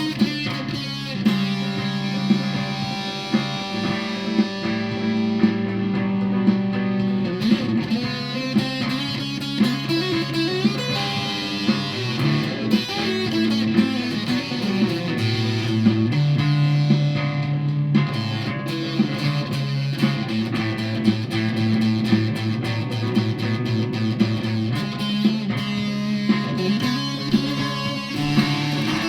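Aria Pro II Thor Sound electric guitar played through a Behringer fuzz pedal on its Fuzz 2 setting: sustained, distorted chords and riffs with regularly picked notes.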